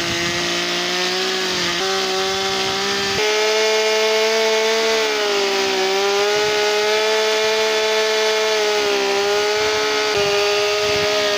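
Two-stroke chainsaw running at high throttle while the tip of its bar cuts into a log. The engine pitch rises about three seconds in and sags briefly a few times as the cut loads it.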